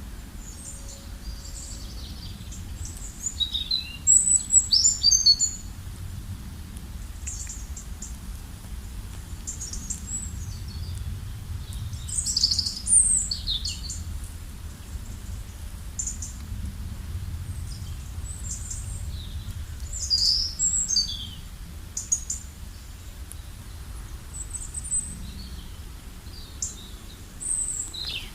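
Songbirds chirping and singing in short, high, scattered phrases, the loudest bursts about four seconds in and again around twelve seconds, over a steady low rumble.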